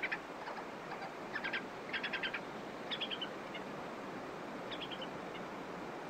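A bird calling in several short bursts of rapid chirps, the later ones stepping down in pitch, over a steady hiss of night ambience.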